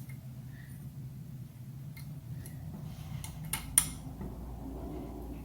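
Small metal brake parts clicking and clinking as they are handled and fitted, a few light taps, then two sharper clinks a little over halfway through, over a low steady hum.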